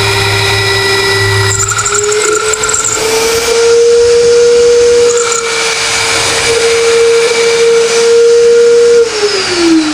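Vevor magnetic drill running loud while boring a hole through the steel truck bed, its motor a steady whine that climbs slightly in pitch about two seconds in, then falls away in a long descending whine as the motor winds down near the end.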